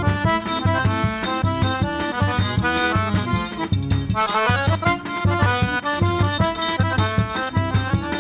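Forró band playing an instrumental introduction, an accordion carrying the melody over a steady low drum-and-bass beat.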